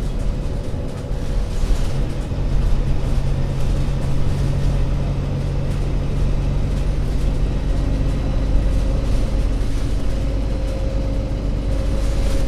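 Diesel engine of an Alexander Dennis Enviro500 MMC Euro 6 double-decker bus running, a low drone that holds one steady note for several seconds and then shifts about two-thirds of the way through as the engine speed changes.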